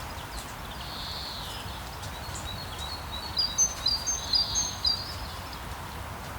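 Steady rain hiss with songbirds calling over it: a buzzy call about a second in, then a quick run of high chirps and whistles from about three to five seconds in.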